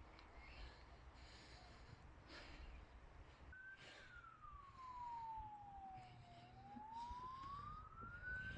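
Faint emergency-vehicle siren in a slow wail, starting about a third of the way in: one tone that falls over a few seconds, then rises again near the end, over a faint background hiss.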